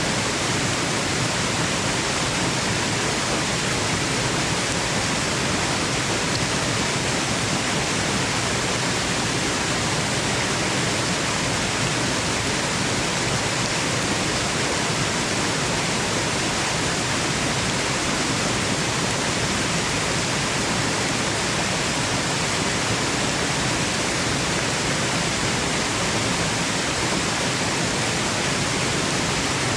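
Waterfall: a steady, unchanging rush of falling water, an even hiss of water noise with nothing standing out from it.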